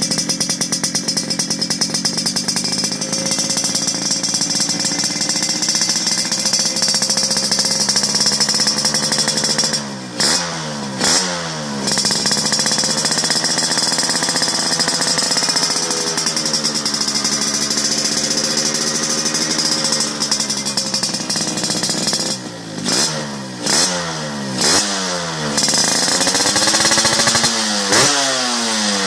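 Motorcycle engine running through an aftermarket RF-1 exhaust, held at steady revs. About ten seconds in there are a couple of quick throttle blips, and near the end a string of repeated revs.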